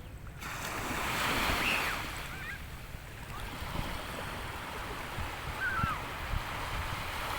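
Sea waves washing onto the shore with a steady rush that swells about a second in, with wind buffeting the microphone. A few faint high chirps sound over it.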